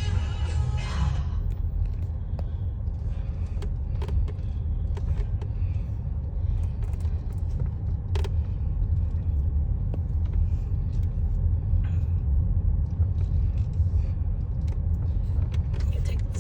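Steady low rumble of a car's engine and tyres heard from inside the cabin as it drives slowly, with a few faint clicks. The tail of a radio song ends about a second in.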